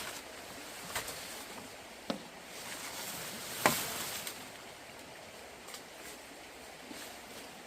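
A few sharp, irregular knocks, the loudest a little under four seconds in, over a steady background hiss.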